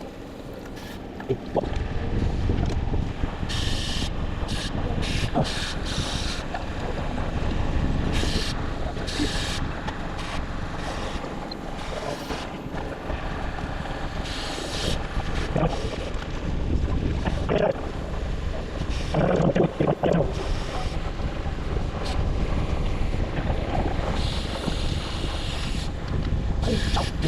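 Wind buffeting the microphone of a rider on a moving bicycle, a steady low rumble with short hissy bursts every second or two.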